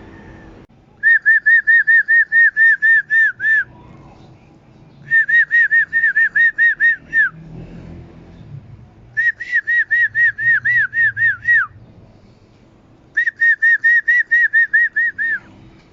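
A loud whistled call repeated four times. Each time it is a quick run of about a dozen clear, rising-and-falling notes, about five a second, ending on a lower falling note.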